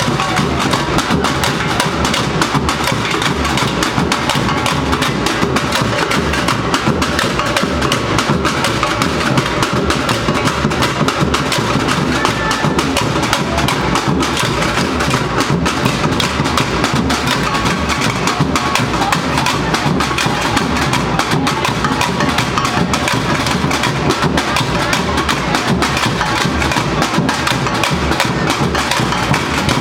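A Brazilian university bateria, a samba-style drum and percussion band, playing a dense, driving rhythm with deep bass drums under fast snare and hand-percussion strokes, without a break.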